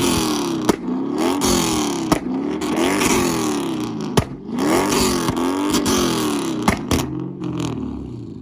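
Tuned car engine revved hard over and over, its pitch climbing and falling about once a second, with sharp exhaust pops and bangs scattered through. It dies down near the end.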